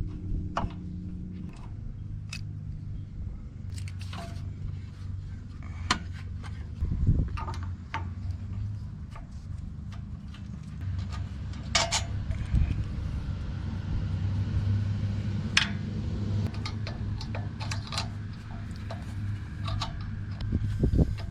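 Hand tools clinking and scraping on metal, irregular sharp clicks and knocks, as the carburetor is unbolted from the wood chipper's small engine. A steady low hum runs underneath.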